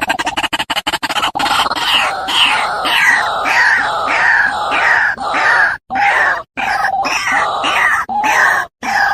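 Bird calls: loud, harsh cries repeated two or three times a second, each sliding downward in pitch, with a few abrupt cuts. Electronic music with a fast pulse ends about a second in.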